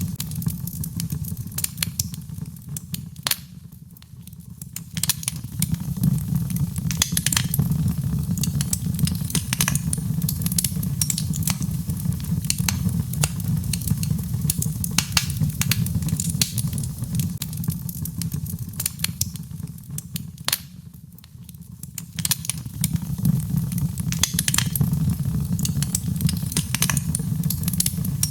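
Birch logs burning in a fireplace, crackling with frequent sharp pops over a steady low rumble of flame; the fire quietens briefly twice, about four seconds in and again about twenty seconds in.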